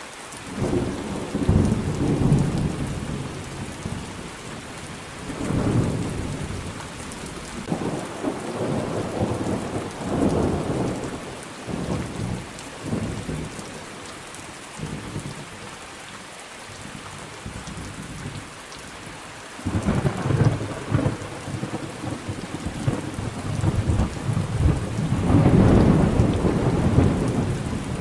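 Steady rain with rolling thunder: several low rumbles swell and fade over the rain, the strongest about a second in and near the end.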